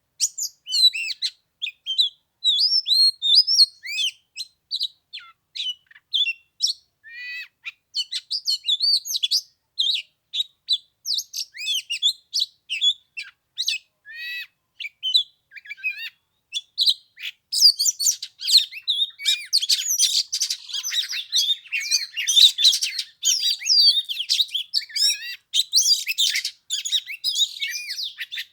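Oriental magpie-robin singing: a varied run of whistled notes, chirps and slurred phrases that becomes fuller and busier in the second half.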